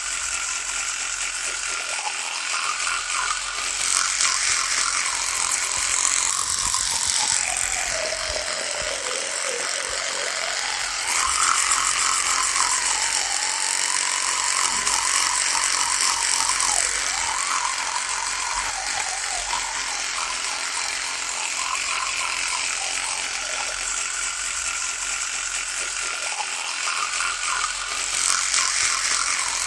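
Electric toothbrush running continuously with a steady buzz. Its pitch sags for a couple of seconds near the middle and wavers after, and the buzz swells louder at times.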